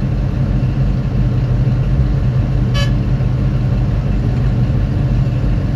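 Hitachi 2500 mining excavator's diesel engine running steadily with a deep, even drone. A single short, high beep sounds about three seconds in.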